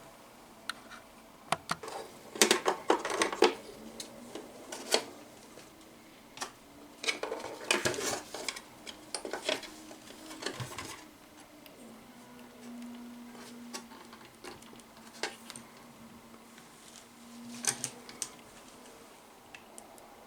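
Irregular clicks, knocks and light clatter of small hard parts being handled, coming in clusters, with a faint steady hum for several seconds in the second half.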